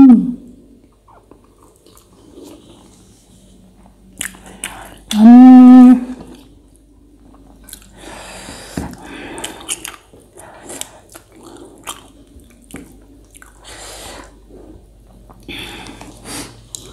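Close-up chewing and lip-smacking of a person eating rice and pork by hand, a run of small wet clicks and smacks. About five seconds in comes a loud, briefly held hum from the eater.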